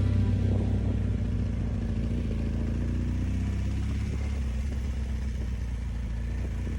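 BMW R1200 GSA's boxer-twin engine running steadily, slowly getting a little quieter.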